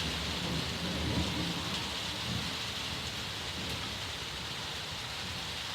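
Steady rain hissing down, with a low rumble of thunder in the first two or three seconds that fades away.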